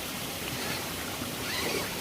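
Rushing water of a mountain stream and small waterfall, a steady hiss.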